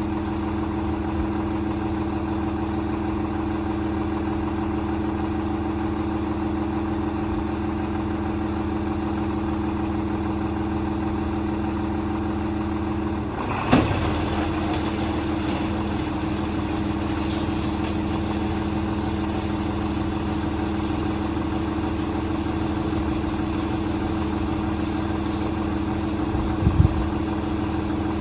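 John Deere 4230's six-cylinder diesel running steadily under the PTO. About halfway through there is a sudden clunk and a brief sag in engine pitch as the New Holland 355 hammermill is kicked on, after which a high whirring hiss from the spinning mill joins the engine. Two sharp knocks near the end.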